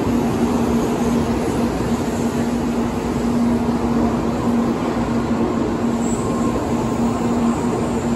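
N700 series Shinkansen train moving slowly along the platform, a steady rumbling run with a constant low hum throughout.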